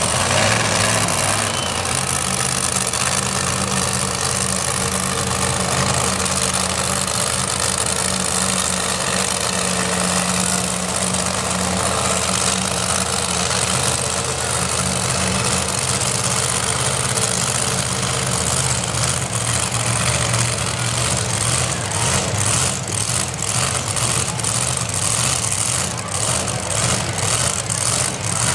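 Supercharged pulling pickup's engine idling steadily at a loud, even level. In the second half the idle turns choppy and pulses at a regular beat.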